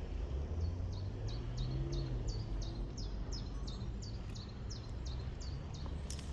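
A small bird calling a rapid run of short high chirps, about three a second, over a steady low rumble.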